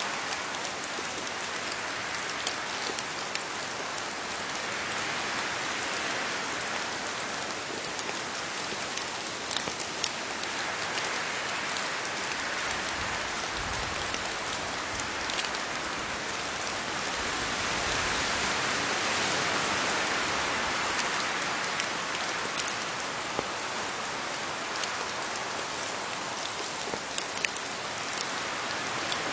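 Steady rain falling on leaves, with scattered sharper drops ticking throughout and the downpour swelling gently in intensity about two-thirds of the way through.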